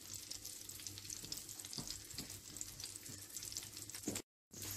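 Chicken kebabs shallow-frying in oil in a nonstick pan over a low gas flame: a soft, steady sizzle with fine crackling. The sound breaks off briefly near the end.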